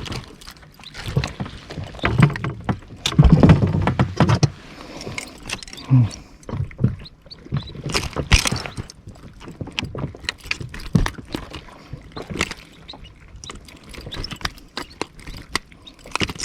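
Irregular knocks, clicks and rubbing from gear being handled aboard a small inflatable boat, with a louder low rumble about three to four and a half seconds in.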